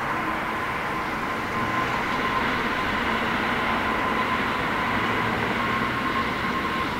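Jet airliner's engines on landing approach: a steady rush of noise with a high whine, growing a little louder about two seconds in.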